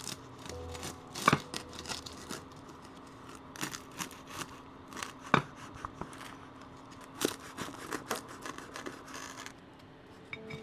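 Hand food-preparation sounds in a kitchen: irregular sharp clicks, taps and scraping rustles, with louder clicks about a second in, about five seconds in and about seven seconds in, over a faint steady hum.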